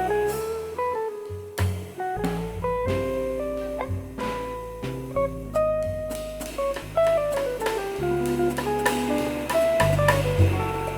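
Instrumental jazz trio of guitar, bass and drum kit playing: a single-note melody line over a moving bass line with drum hits.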